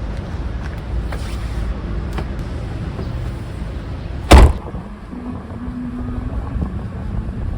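A steady low rumble, with one sharp, loud knock about four seconds in and a faint low hum after it.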